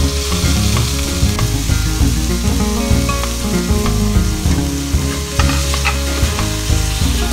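Sliced pork and garlic sizzling as they fry in a hot wok, stirred and turned with a wooden spatula.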